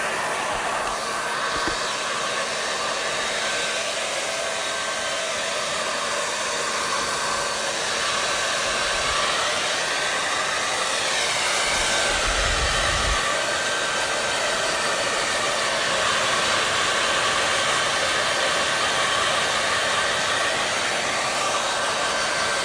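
Hair dryer blowing steadily: a constant rush of air with a faint steady whine. About halfway through a faint tone rises and falls once, followed by a brief low rumble.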